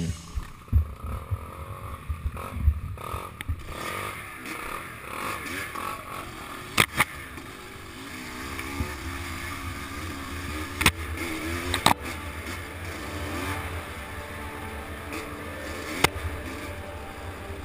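Vehicle engine on a rough trail, its pitch rising and falling as the throttle changes over a low rumble, with several sharp knocks from bumps along the way.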